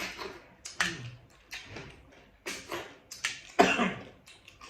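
Close-up eating sounds: a run of short, noisy mouth bursts of chewing and slurping, roughly one every half second to second, the loudest a little past halfway.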